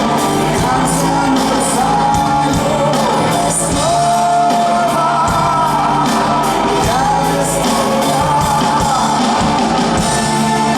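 Live band music with a singer holding long, slightly bending notes over a steady accompaniment.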